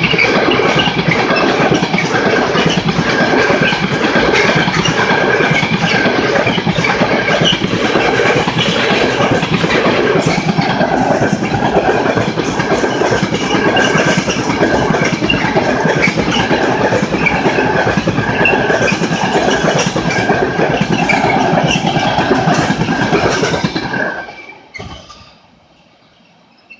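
A train running past close by, its wheels clattering over the rails with a steady high squeal over the rumble. The sound stops abruptly about 24 seconds in, leaving a faint background.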